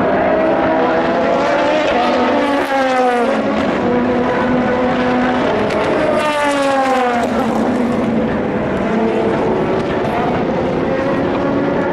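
Endurance race cars on track: two cars go by one after another, each engine note falling in pitch as it passes, over the steady sound of other cars running.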